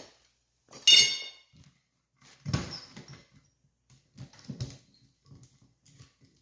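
A wheel and tire being taken off a floor jack: a short metallic clang with a ringing tone about a second in, then several dull thumps and knocks as the wheel is handled.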